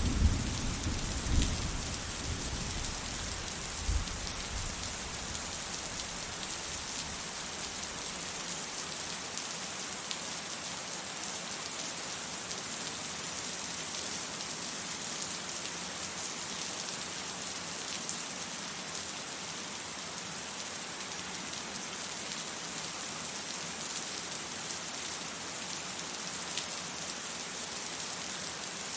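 Steady rain falling, an even hiss of drops on hard surfaces. In the first few seconds the low rumble of thunder dies away, with a few sharper cracks in it, leaving only the rain.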